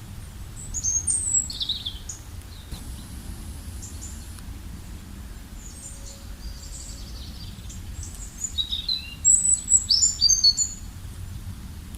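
Birds chirping in short, high twittering bursts, one run early on and a longer one near the end, over a steady low background rumble.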